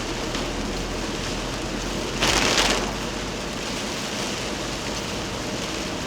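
Heavy rain falling steadily, with a brief louder rush of water a little over two seconds in.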